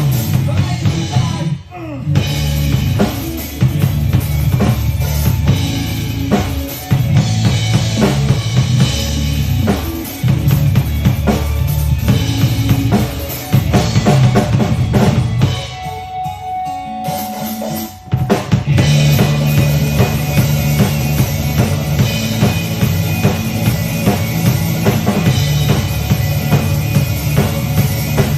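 Drum kit played over accompanying music, with kick and snare driving a dense, steady groove. About two-thirds of the way through the beat drops away for a couple of seconds, then the full kit comes back in.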